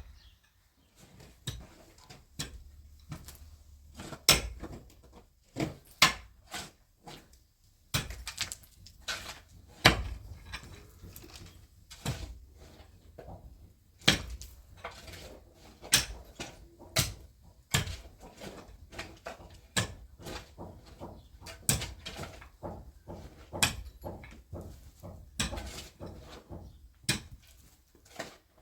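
A series of irregular sharp knocks and clatters, about one or two a second, with faint scraping in between.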